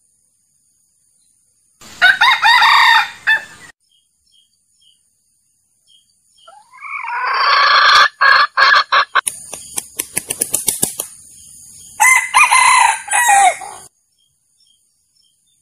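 Jungle fowl rooster crowing in three short bursts, about two seconds, seven seconds and twelve seconds in. A quick run of sharp clicks follows the middle crow. This is a wild cock's call played as a lure for trapping jungle fowl.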